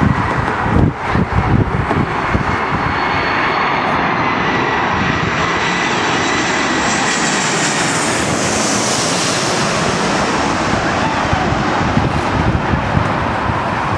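Jet airliner flying past at the airport: a steady engine rush with a high whine over it, brightest about eight to nine seconds in.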